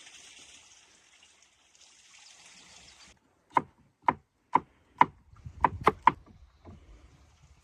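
A steady hiss like pouring or running water that stops suddenly about three seconds in. Then a run of about eight sharp chops on wood, roughly two a second.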